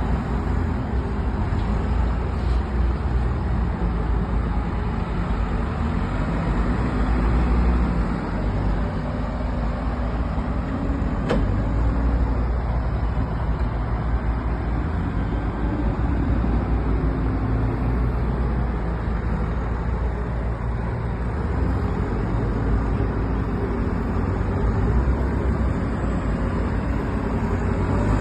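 Heavy engines running steadily: a deep low rumble with engine tones that shift slowly. There is a single sharp click about eleven seconds in.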